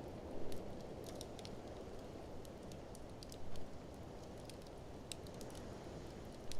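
Wood fire crackling with many sharp little snaps and a few louder pops, over a steady low rush of blizzard wind.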